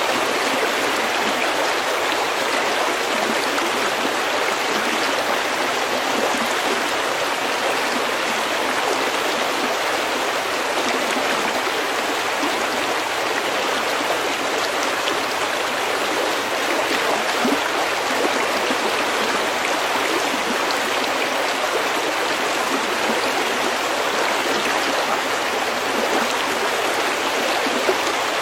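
Snowmelt stream running steadily over pebbles, an even, unbroken babble of water.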